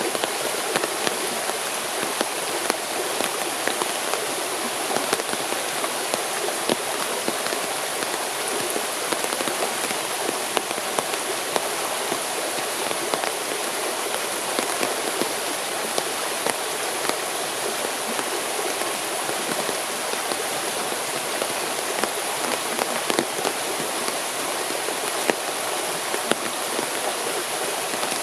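Steady rain falling, a constant wash of water noise dotted with many small drop impacts.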